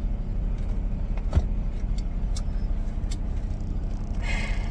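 Steady low drone of a semi-truck's engine heard inside the cab, with a few light clicks and a short hiss near the end.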